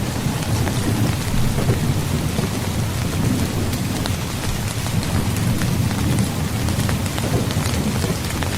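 Steady heavy rain, with fine drop patter on surfaces, over a continuous low rumble of thunder; there is no sharp crack.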